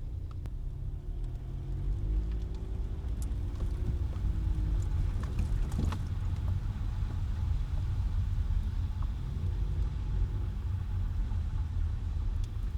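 A car driving with a steady low road rumble. The engine note rises as it accelerates, twice, with a sharp knock about six seconds in.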